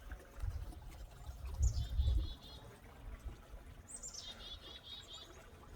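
Chickadee giving its chick-a-dee call twice, about two seconds in and again about four seconds in: a high opening note followed by a quick run of buzzy dee notes, the second call with the longer run. Low rumbles come under the first call.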